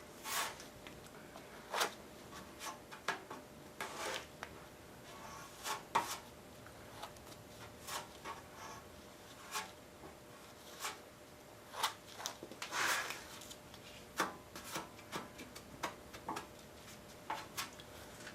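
Short, irregular hand scraping strokes against a surface, with a longer stroke about thirteen seconds in, over a faint steady shop hum.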